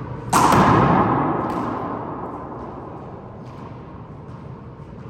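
A sudden loud bang about a third of a second in that rings on and fades away over about two seconds. A few faint, sharp smacks follow.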